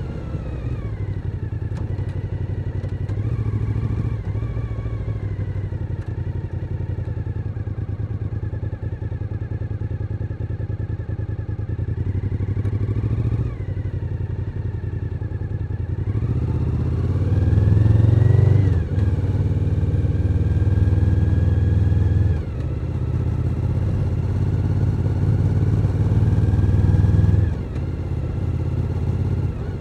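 Suzuki SV1000N's 90-degree V-twin engine running while riding, its note climbing in pitch under acceleration just past the middle. Several times the sound drops sharply, as when the throttle is shut.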